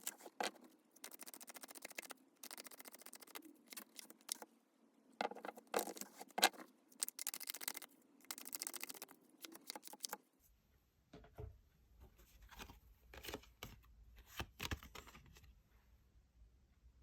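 Tarot cards being shuffled and handled: repeated papery rustles and sharp taps in clusters, then sparser, fainter taps over a low hum from about ten seconds in.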